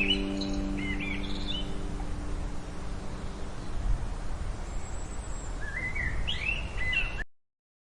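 Bird calling in two bouts of short, quick rising notes over a steady background hiss, the second bout near the end. The last held notes of a music score fade out in the first two seconds, and all sound cuts off abruptly about a second before the end.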